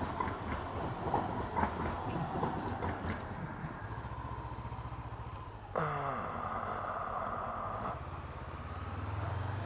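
A Honda CB500F's 471 cc parallel-twin engine runs at low revs under clattering noise at first. Just past halfway a sudden hiss with a falling tone cuts in for about two seconds. Near the end the engine note swells as the bike pulls away.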